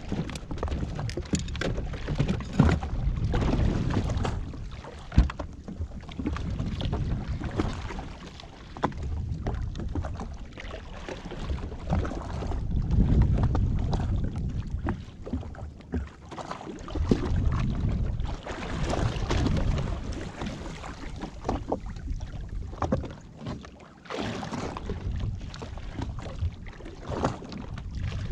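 Water sloshing and wind noise around a jet ski at sea, swelling and fading every few seconds, with scattered short knocks against the hull.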